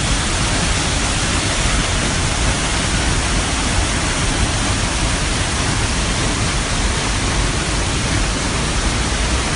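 Steady rush of a rain-swollen waterfall and flash-flood torrent pouring down a mountain valley.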